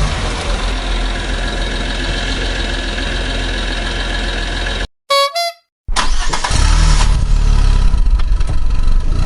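Cartoon vehicle sound effects: an engine running with horn-like honking. About five seconds in it cuts off for a moment, and a short jingle of stepped tones plays before the engine sound comes back.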